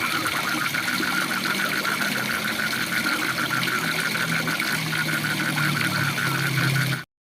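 Waterfall rushing with frogs calling in a fast, even pulsing trill over it and a lower droning croak that grows stronger toward the end. The sound cuts out abruptly for a moment just before the end.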